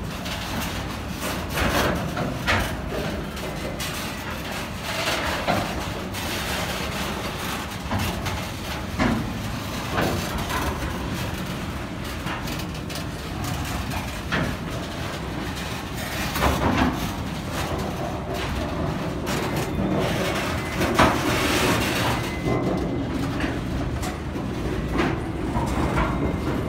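Freight wagons rolling past close by: a steady rumble of steel wheels on the rails, broken by irregular clanks and knocks from wheels and couplings.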